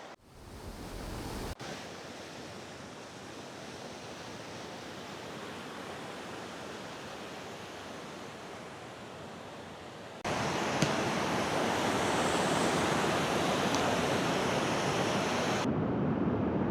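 Steady rush of falling water from a waterfall, becoming louder and fuller about ten seconds in.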